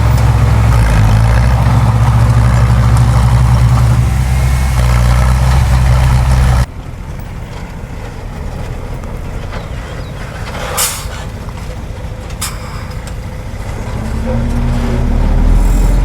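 Heavy diesel engines of earthmoving machines running: loud and steady, then dropping suddenly to a quieter run about six and a half seconds in. A short hiss comes near the middle, and the engine sound rises again near the end.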